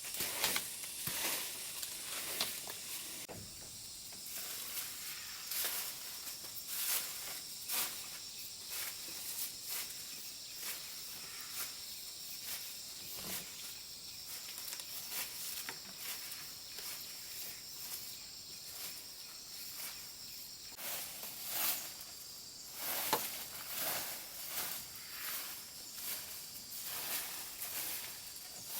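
Irregular rustling and crackling handling noises, over a steady high-pitched insect buzz that stops about three quarters of the way through.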